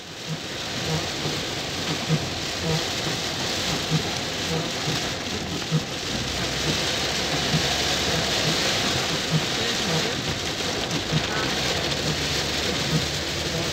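Heavy rain falling on a car's roof and windshield, heard from inside the cabin: a steady hiss with frequent short low knocks scattered through it.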